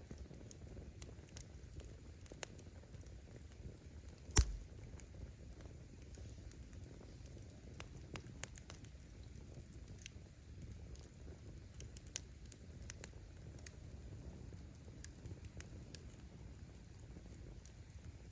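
Wood bonfire burning: a low steady rush of flame under scattered crackles and snaps of burning firewood, with one loud pop about four seconds in and another sharp snap around twelve seconds.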